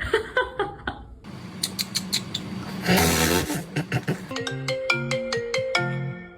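Sharp chirps and squeaks from a pet parrot, then from about four seconds in a tune of held notes with a bass line under them.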